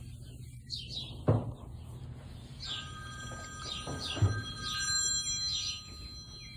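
Small birds chirping repeatedly with short high notes, with two dull thumps about a second in and about four seconds in. From about three seconds in until near the end, a steady ringing tone of several pitches held together sounds over the chirps.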